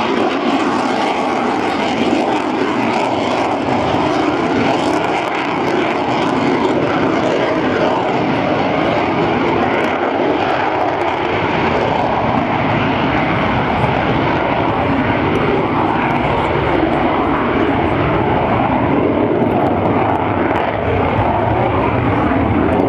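Twin-engine jet fighter with two General Electric engines flying a display pass overhead. Its engine noise is loud and steady throughout.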